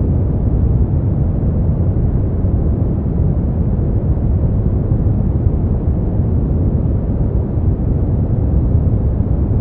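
Continuous generated sleep-aid noise, sold as white noise: a steady, even rush weighted toward the low end, deep and rumbly with little hiss on top.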